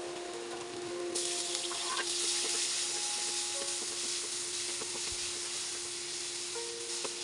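Tomato wedges hitting hot olive oil in a nonstick frying pan: a sizzle that starts suddenly about a second in and keeps going while a wooden spatula stirs them with the browned ground pork.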